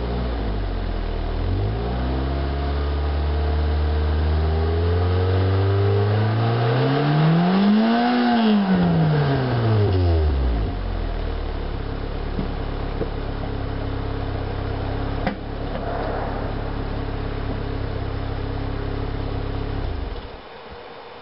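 1987 Chevy Nova's exhaust as the engine is revved slowly up, peaking about eight seconds in, then falling back to a steady idle. A single click comes partway through the idle, and the engine sound stops near the end.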